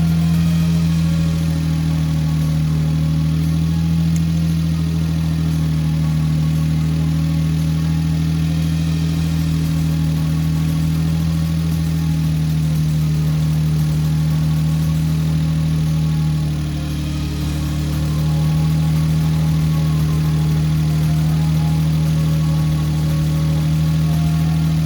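Suzuki K6A three-cylinder engine idling steadily, with a brief dip in level about two-thirds of the way through. The camshaft position sensor has been newly replaced.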